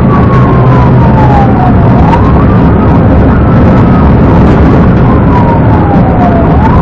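Police siren on a wail setting: its pitch falls slowly, then sweeps quickly back up, twice, over a loud, steady low rumble of a vehicle at speed.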